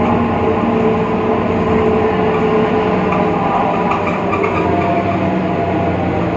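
BredaMenariniBus Avancity Plus city bus under way: steady running noise with a droning whine whose pitch drifts up and down. This is the strange sound the owner puts down to the bus's differential.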